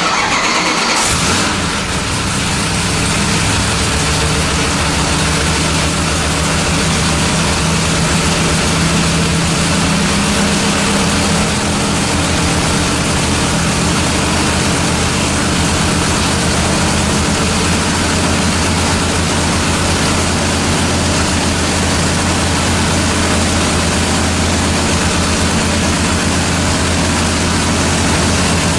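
426 Hemi V8, bored and stroked to 491 cubic inches, firing up on an engine dyno, catching about a second in, then running steadily.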